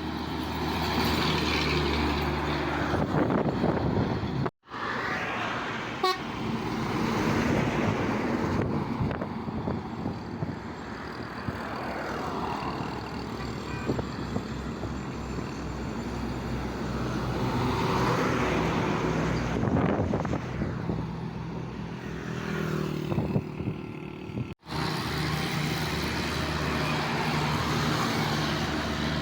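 Truck engines running amid road traffic, with vehicles passing and horn toots. The sound cuts out abruptly twice, at edits in the footage.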